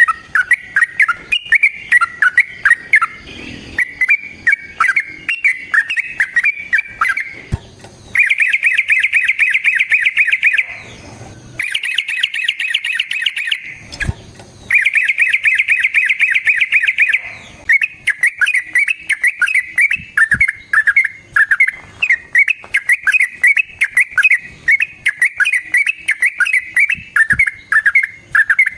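Yellow-vented bulbul (trucukan) singing loudly: bubbly, repeated short phrases, broken near the middle by three long, rapid, rolling trills.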